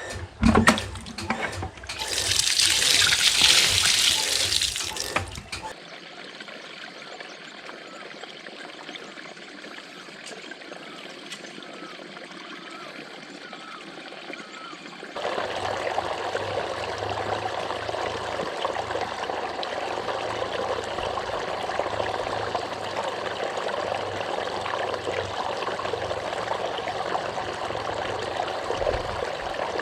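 Water running steadily. A loud hiss lasts a few seconds near the start, then the flow is quieter until about halfway through, when it turns louder again.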